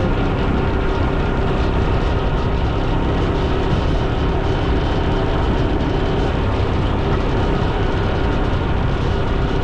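Motorcycle riding along a road: engine running steadily at cruising speed under heavy wind rush on an action camera's microphone.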